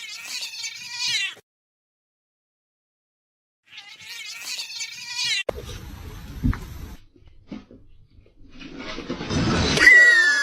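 A cat meowing in drawn-out calls, broken by a couple of seconds of dead silence, with scuffling noise and a thump later on.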